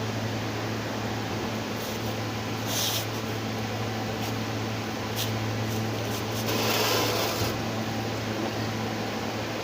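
Steady mechanical hum and hiss, like a fan running, with a short hissing burst about three seconds in and a longer, louder hiss lasting about a second near the middle, plus a few light clicks.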